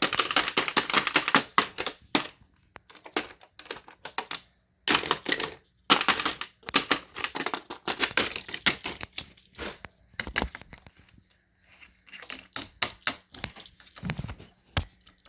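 Rapid clicking and clattering in bursts with short pauses between them.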